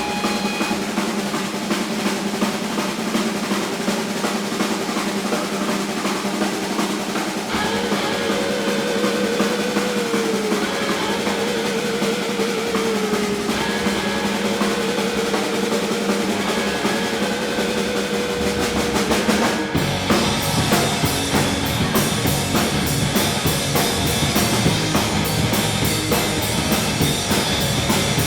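Live rock band playing an instrumental section, with drums and snare rolls to the fore. Wavering held lead notes sound over them for a stretch, and about 20 seconds in the full band with bass comes back in heavier.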